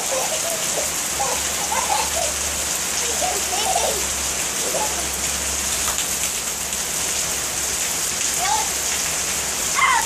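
Heavy rain falling steadily on pavement, a dense, even hiss.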